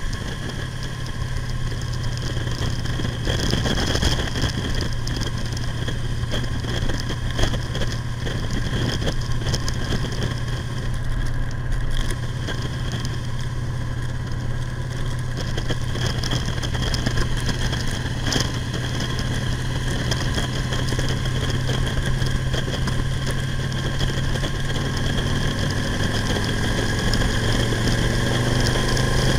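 Victory V92C's V-twin engine running steadily as the motorcycle cruises along the road, its pitch climbing near the end as it accelerates.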